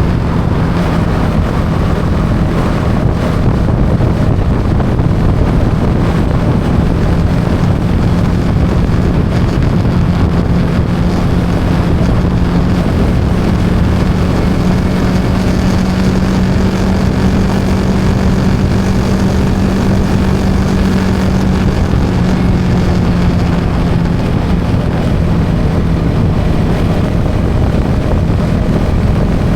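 Yamaha XSR 155's single-cylinder engine running at a steady cruise on the road, its pitch holding nearly constant, over a constant rush of wind and tyre noise.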